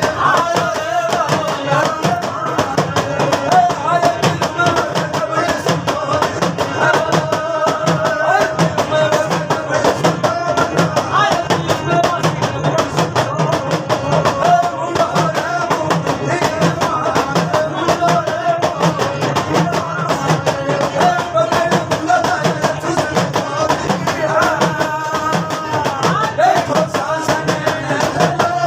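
Live Indian folk devotional music: a wavering melody over fast, steady percussion strokes.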